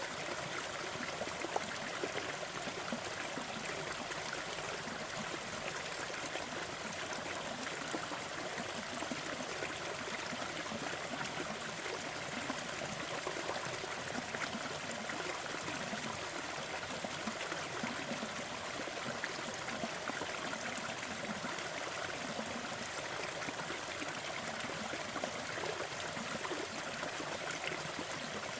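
Waterfall: a steady rush of falling water, bright and hissing rather than rumbling, unchanging throughout.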